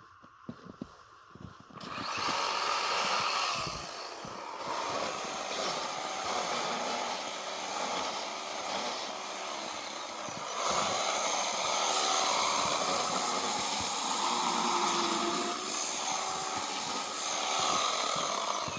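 Chainsaw carving into a block of packed snow: it comes up to speed about two seconds in and runs at varying throttle, the pitch and level rising and falling as it cuts, then drops off near the end.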